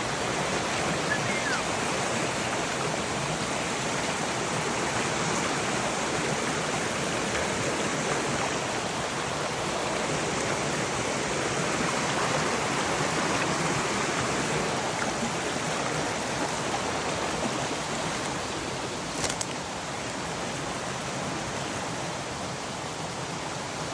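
River water rushing: a steady, even rush of flowing water.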